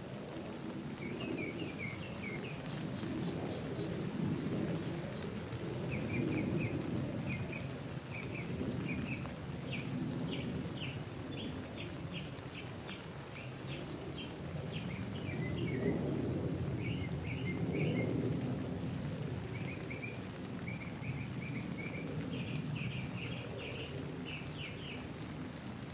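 Rain on a nylon tent heard from inside: a low steady rush that swells and eases every few seconds. A bird outside calls throughout in short runs of chirps and quick trills.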